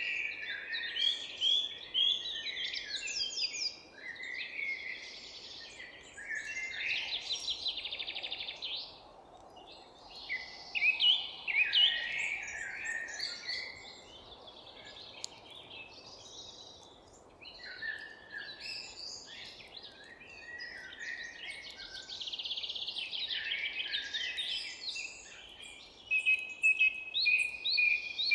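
Several songbirds singing at once, overlapping chirps, whistled phrases and fast trills, with brief lulls around 4 and 14 seconds in, over a faint hiss of background noise.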